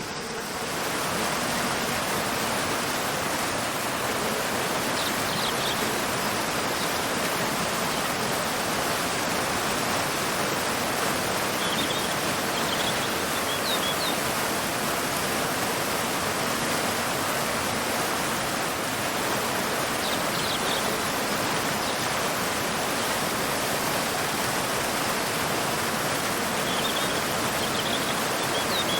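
Waterfall cascading into a river: a steady, even rush of falling water. Faint short bird chirps come through in small clusters every several seconds.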